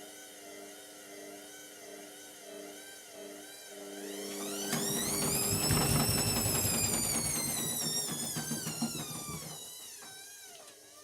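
Indesit MTWC71252WUK washing machine motor making a wavering whine while the drum turns slowly. About four seconds in, the whine rises steeply in pitch as the drum speeds up toward spin, peaks, then falls away over the next few seconds. It is a spin attempt winding back down, as the machine's balance check deals with an unbalanced load.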